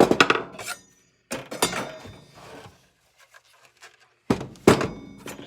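Sharp metallic clinks and knocks in a few clusters, two louder ones near the end, as the loosened blade bolt, washer and saw blade are handled and taken off a miter saw's arbor.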